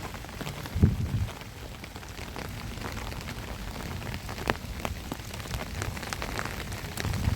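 Steady rain falling, with many separate drops ticking close by and a brief low thump about a second in.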